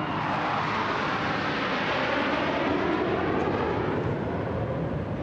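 Jet aircraft formation flying past overhead: a C-17 transport with two Su-30 fighters, heard as a steady jet roar with a slow sweeping shift in pitch as they pass.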